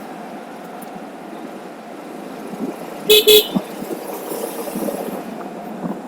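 A vehicle horn gives two short toots about three seconds in, over steady road noise while riding.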